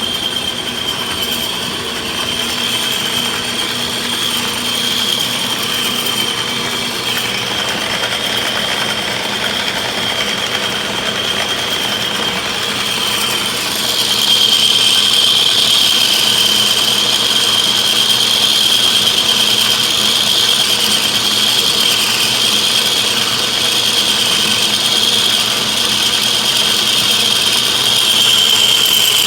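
A machine tool running and cutting a piece of steel, with a steady high whine over a continuous grinding noise. It gets louder about halfway through.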